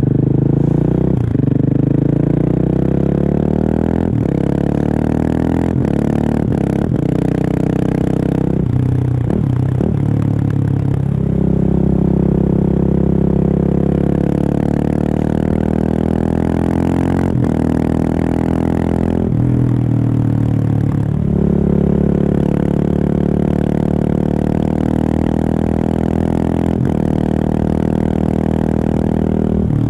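Husqvarna 701's single-cylinder engine through an open Remus exhaust with the dB killer removed, accelerating hard and shifting up through the gears: the revs climb, drop at each shift, and climb again, several times over.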